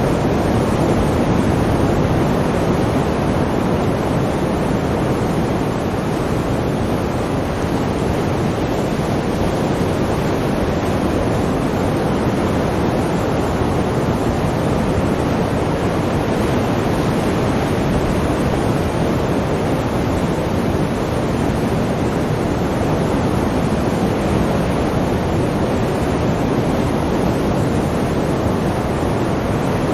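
Sea surf rushing steadily, a dense wash of noise with little rise and fall.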